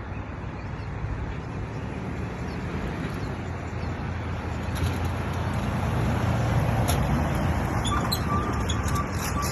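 Semi truck's diesel engine running with a steady low rumble that builds a little louder in the second half.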